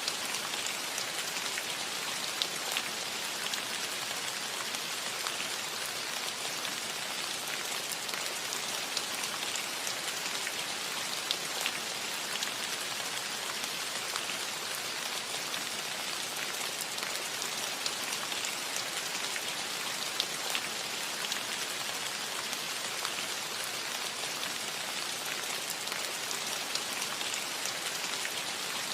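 Steady rain falling on a cottage roof: an even hiss with scattered louder drop taps.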